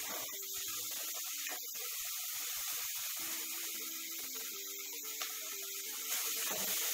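Chopped vegetables sizzling in an aluminium kadai over a gas flame while being stirred with a plastic spatula. The hiss gets louder about six seconds in as a little water goes into the hot pan.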